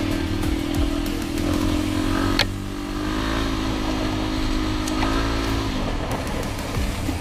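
Dirt bike engine running at a steady speed under wind and road noise, with one sharp click about two and a half seconds in. The engine note drops away shortly before the end.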